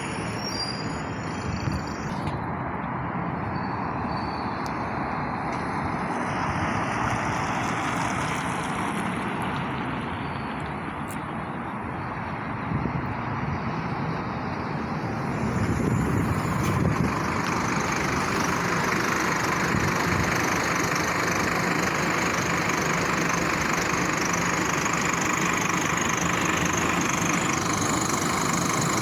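Street traffic with heavy trucks driving past, their diesel engines running, and the noise grows louder about halfway through as a vehicle comes close.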